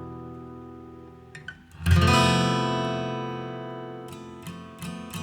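Background acoustic guitar music: a chord rings and fades, a new chord is strummed about two seconds in and rings out, and lighter plucked notes follow near the end.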